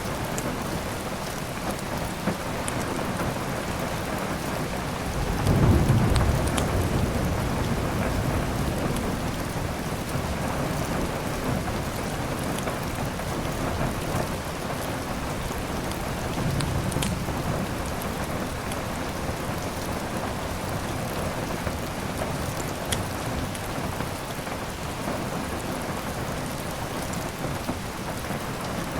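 Steady heavy rain with rolling thunder: a loud low rumble about six seconds in and a softer one a little past the middle. A few faint scattered pops ride over the rain, the crackle of a wood fire.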